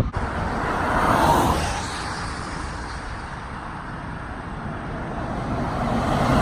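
Highway traffic: vehicles passing on the interstate, one going by about a second in and another building up near the end.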